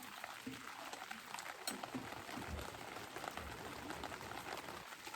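Steady rain falling, with a few faint clicks.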